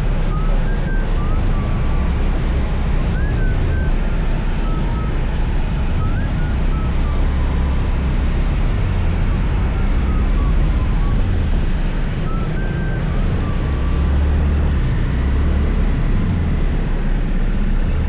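Scooter riding noise: wind buffeting the helmet or handlebar microphone over the steady engine and road noise of a moving scooter.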